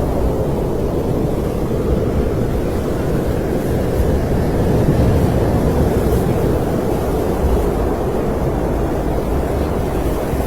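Snowstorm wind blowing as a steady, deep rushing noise that swells a little around the middle.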